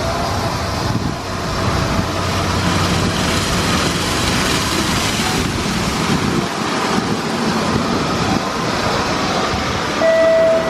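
PDQ ProTouch Tandem soft-touch car wash running: a steady rush of noise from the wash equipment, with a short beep near the end.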